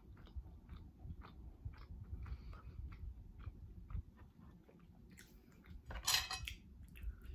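A person chewing food with the mouth closed: soft, wet mouth clicks come several times a second. About six seconds in there is a brief louder scrape as a ceramic bowl is moved on the table.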